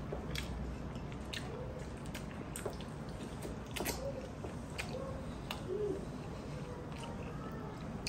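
Close-up wet chewing, sucking and lip smacks of a person eating tuna eyes, with sharp mouth clicks every second or so.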